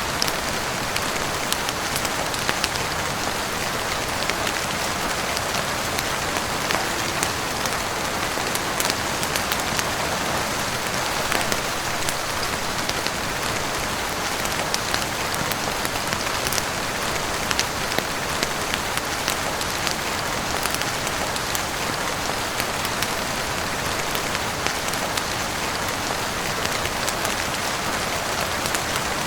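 Steady heavy rain falling on a roof and windows, an even hiss of water, with scattered sharp ticks and pops throughout.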